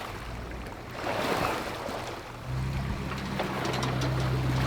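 Wind and water noise, then about halfway through an engine starts running at a steady low idle hum.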